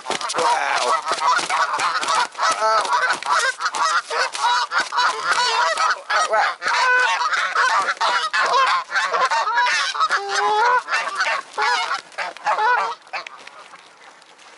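A crowd of geese honking loudly, many calls overlapping one another, thinning out and dying away about a second before the end.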